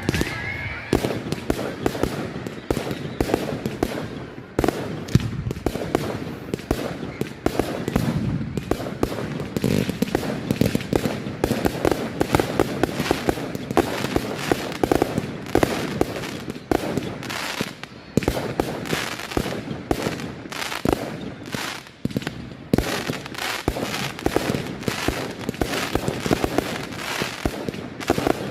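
Professional firework display: a rapid, continuous barrage of bangs, pops and crackling shells, several a second.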